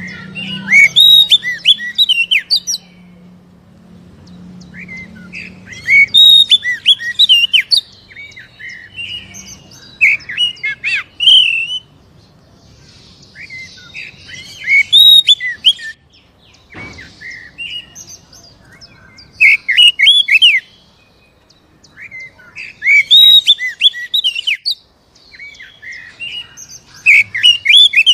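Oriental magpie-robin (kacer) singing: loud bursts of fast, varied, high warbling phrases, each lasting one to two seconds, coming every three to four seconds with short pauses between.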